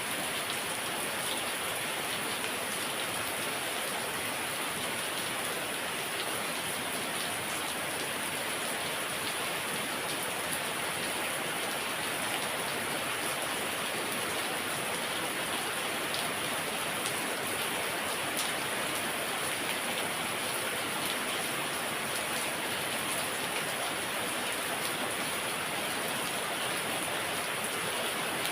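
Heavy rain falling steadily, a constant hiss with scattered drop ticks.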